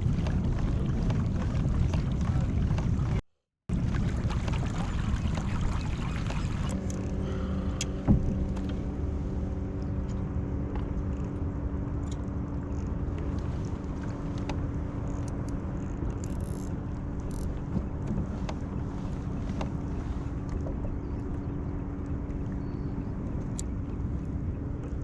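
Wind and water noise on the bay around a fishing kayak. From about seven seconds in, the steady hum of a boat engine runs under it, with a single knock just after eight seconds.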